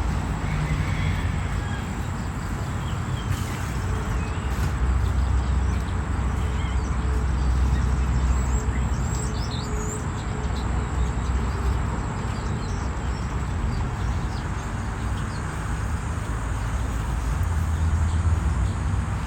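A steady low motor rumble under a constant hiss, with a few short bird chirps about halfway through.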